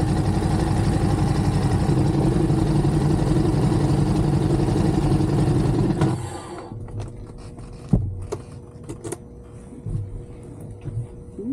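Ducati Monster's L-twin engine running steadily under wind noise, then cutting off suddenly about six seconds in, leaving a few sharp clicks and knocks.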